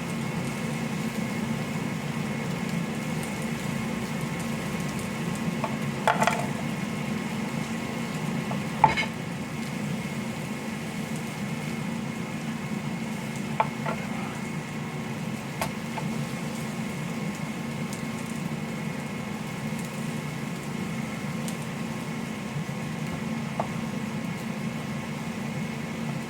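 Steaks frying in a skillet, a steady sizzle, with a few sharp knocks of a knife cutting through ears of corn on a board, the loudest about six and nine seconds in.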